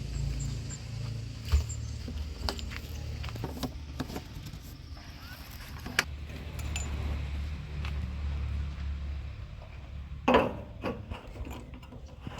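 Heavy diesel machinery engine running steadily at low revs, with scattered metallic clanks and knocks: a sharp one about a second and a half in and a quick cluster near the end.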